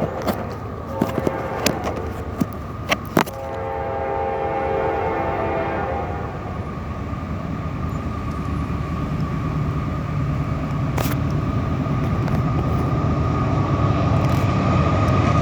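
CSX freight locomotive's air horn sounding two long blasts as the train approaches, with a few sharp clicks near the start. Then the GE CW44-9 diesel's engine and rolling train grow steadily louder as it draws near, with a steady high tone over the rumble.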